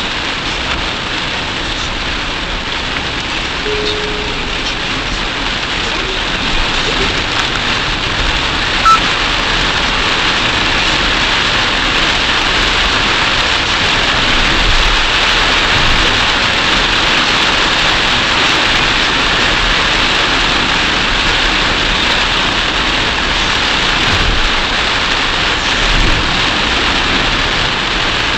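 Heavy rain pounding on a moving car and its windshield, with tyres hissing on the flooded road, heard through a dashcam. The downpour grows louder about seven seconds in and again a few seconds later, and there is one sharp click about nine seconds in.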